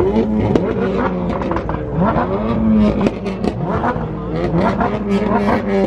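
Several high-performance car engines running and revving at once, their pitch rising and falling over one another above a steady engine drone, with sharp pops among them.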